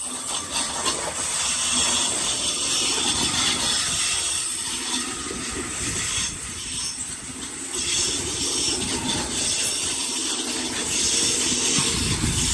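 Electric multiple-unit passenger train pulling out along the platform, its wheels running steadily on the rails.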